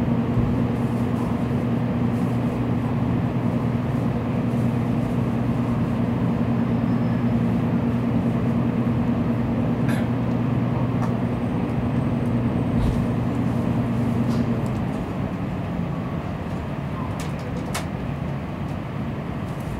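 Steady hum inside a Tokaido Shinkansen carriage standing at the platform, with a few sharp clicks. About three-quarters of the way through, the hum stops and a lower, rushing rail noise follows as the train starts to pull out.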